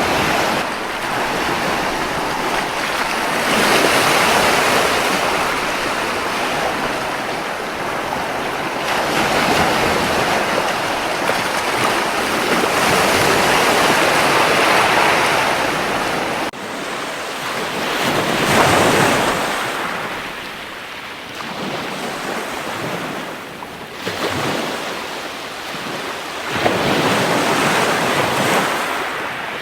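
Ocean waves breaking and washing up a beach, swelling and ebbing several times a few seconds apart.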